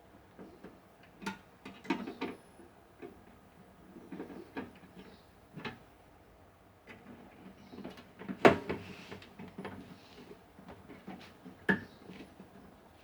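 Irregular light clicks and knocks of things being handled, with the sharpest knock about eight and a half seconds in and another near the end.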